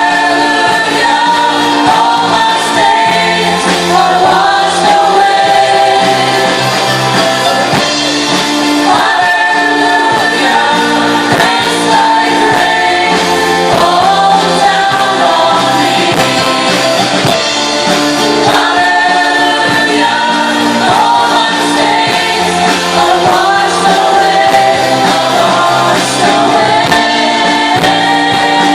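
Live worship band playing, with voices singing a slow gospel melody over sustained instrumental backing.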